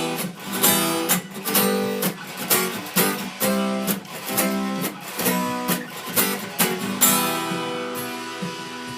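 Acoustic guitar strummed in a steady rhythm, about two chord strokes a second, ending with a final chord about seven seconds in that rings on and fades away.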